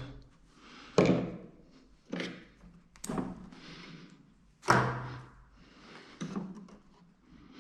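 About five separate knocks and clunks at irregular intervals, the loudest about a second in and just past the middle, from a headlamp's levelling motor and housing being handled on a bench.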